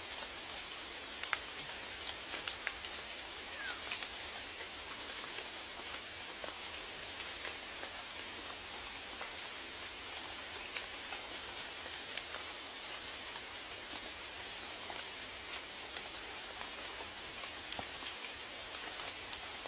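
Steady rain falling, an even hiss with scattered sharp ticks of individual raindrops hitting a surface.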